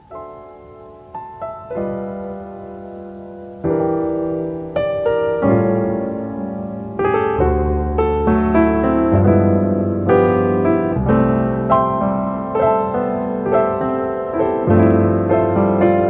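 Background music: a gentle solo piano piece, notes and chords struck and left to ring, beginning right at the start and growing fuller and louder over the first few seconds.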